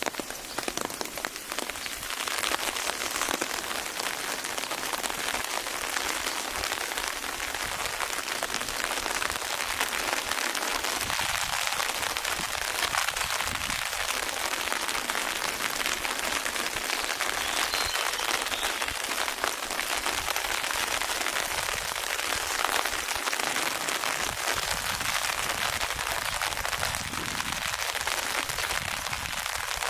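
Steady rain falling and pattering on a surface, a dense even hiss of many drops that picks up a little about two seconds in.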